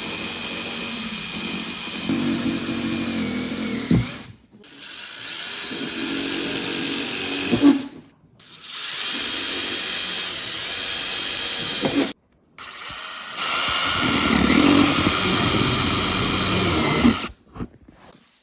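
A handheld electric power tool's motor running in four bursts of about three to four seconds each, with short pauses between them; its pitch dips now and then, as under load.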